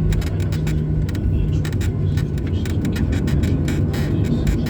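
Cabin noise inside a Boeing 737-800: a steady engine hum over a low rumble, with many quick rattles and knocks. The hum's pitch drops slightly about a second in.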